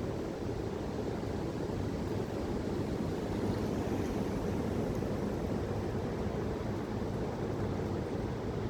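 Strong wind blowing steadily, heard mostly as a low rumble of wind buffeting the microphone.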